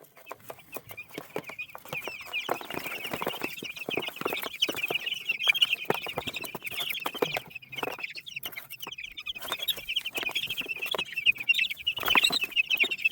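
A brood of week-old Cornish Cross chicks peeping nonstop, many high chirps overlapping, with scattered light clicks and rustles.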